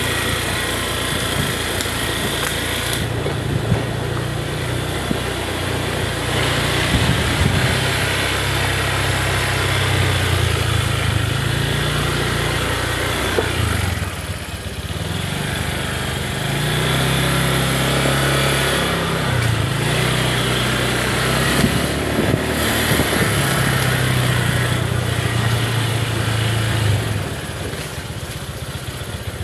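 Small motorcycle engine running while riding, its pitch rising and falling a few times with speed changes, over a steady rushing noise.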